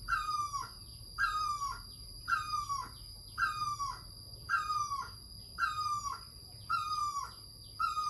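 A bird repeating the same short call about once a second, each call a quick falling note. A steady high-pitched whine runs underneath.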